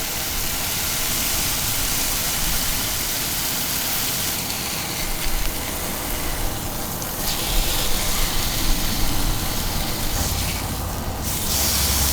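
Fish fillet frying in a hot pan, a steady sizzling hiss, with road traffic passing on the highway; a low vehicle rumble grows louder near the end.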